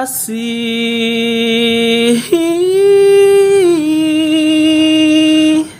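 Solo voice singing the word "Kasih" in Malay as long held notes of a love song. The voice steps up to a higher note about two seconds in, drops slightly near four seconds, and breaks off just before the end.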